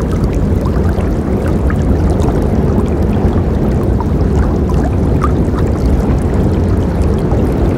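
A river rushing steadily, a deep continuous roar of water with small splashes and gurgles flicking over the top.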